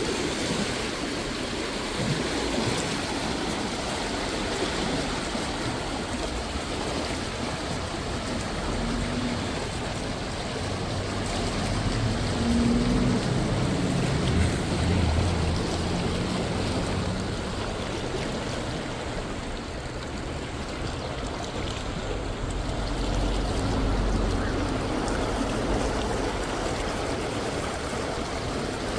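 Water rushing steadily under a bridge. A boat engine's low drone comes in about a third of the way through, swells, and fades again past the middle.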